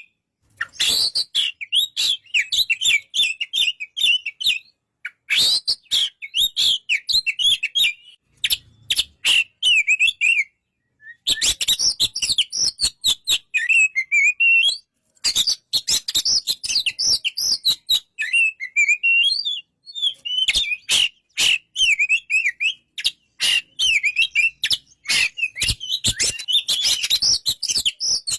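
Oriental magpie-robin (kacer) singing: rapid, varied runs of whistled and chattering notes in bursts of a few seconds with short pauses between them, mixed with many sharp clicks.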